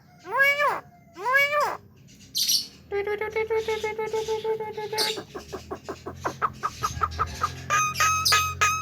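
Javan myna (jalak kebo) calling in a varied string: two arching whistled notes, a brief harsh burst, a long held note, then a fast clicking rattle that runs into a quick series of repeated short notes near the end.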